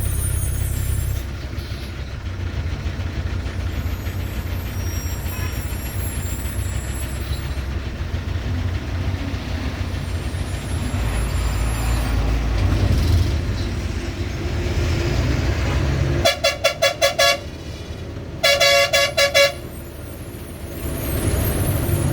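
Heavy truck engine running steadily, with a vehicle horn sounding twice about two-thirds of the way through, each time a rapid run of short pulsed toots lasting about a second.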